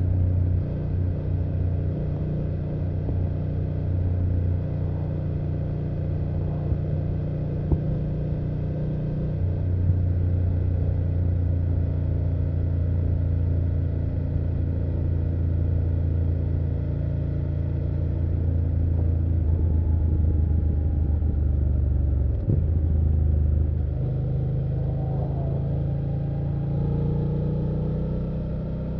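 BMW F800GS parallel-twin engine and exhaust heard from the rider's seat on the move, running at a steady pace with small shifts in engine speed. There is a brief break in the note about 22 seconds in, and it settles at a higher pitch after it.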